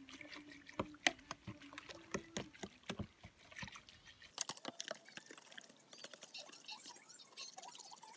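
Scattered light clicks and knocks of kitchenware being handled while a milkshake mixture is prepared for mixing; no blender motor is running.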